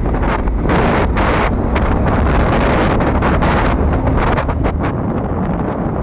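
Wind buffeting the microphone of a moving bike: a loud, steady rumble with irregular gusts flaring up throughout.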